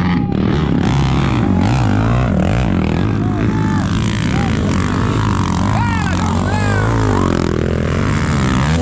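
Off-road vehicle engine running, its pitch rising and falling as it revs, with voices calling out in the background.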